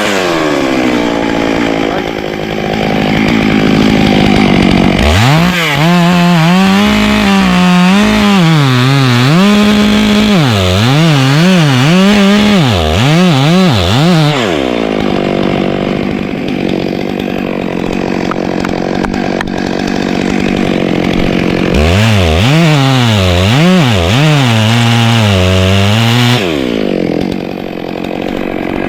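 Two-stroke chainsaw running hard through wood, its engine pitch swinging up and down repeatedly as the throttle is worked, between longer stretches of steady full-throttle cutting.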